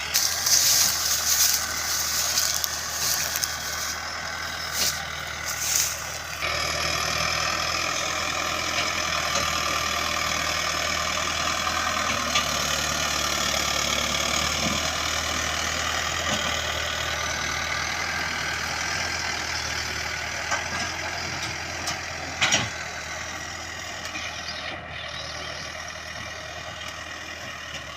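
Mahindra Arjun 555 tractor's diesel engine running steadily. There are a few louder bursts of noise in the first six seconds and one sharp knock about twenty-two seconds in, and it grows a little quieter near the end.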